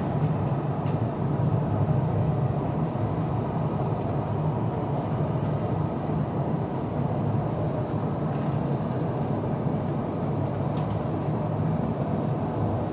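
Steady cabin noise inside an Airbus A350-900 in flight: a low, even rumble of airflow and its Rolls-Royce Trent XWB-84 engines, with a few faint ticks.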